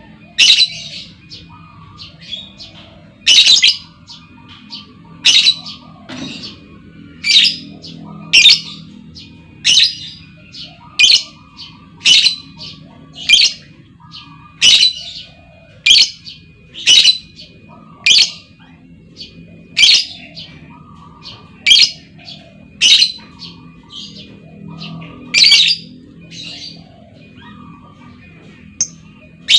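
Female lovebird calling: short, shrill, piercing calls about once a second, with softer chirping chatter between them.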